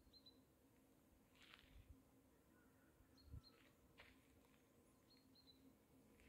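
Near silence outdoors, with a few faint, brief bird chirps: once near the start, again about three seconds in, and again about five seconds in.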